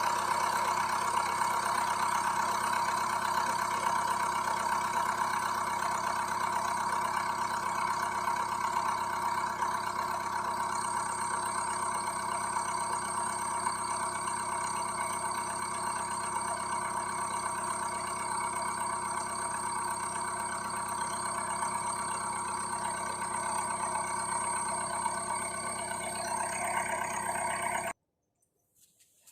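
Audi A4 engine idling steadily, then cutting off abruptly near the end.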